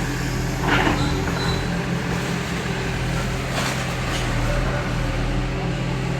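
Heavy diesel engine of earthmoving machinery running steadily at a constant pitch, with short bursts of hissing noise about a second in and again around three and a half and four seconds.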